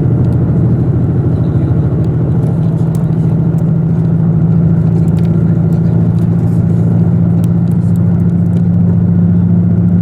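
KiHa 85 series diesel railcar's engine running steadily under power, a loud low drone over the rumble of the train, its note settling to a steady pitch about two and a half seconds in.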